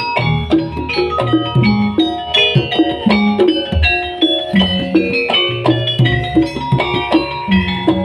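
Live Javanese jaranan dance music: many short struck metallic notes over low drum strokes in a continuous, even rhythm.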